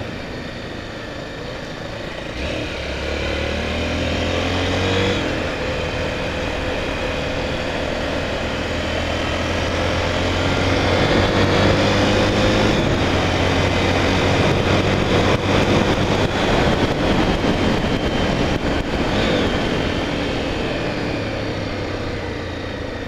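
Honda Tornado 250 single-cylinder four-stroke engine running under way, its pitch rising for the first few seconds and dropping about five seconds in, then climbing again near the end, under a loud rush of wind and riding noise that peaks midway.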